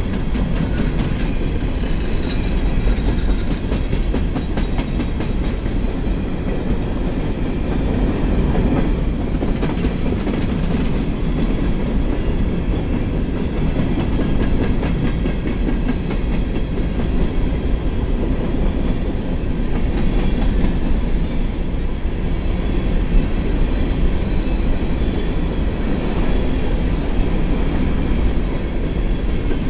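Empty steel coal hopper cars of a long freight train rolling past, a steady low rumble with the wheels clicking over the rail joints.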